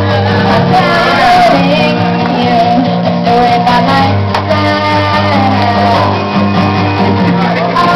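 Live song: a singer's voice over strummed guitar accompaniment, played steadily throughout.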